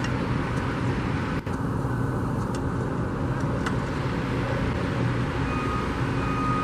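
Steady outdoor traffic rumble with a low engine hum.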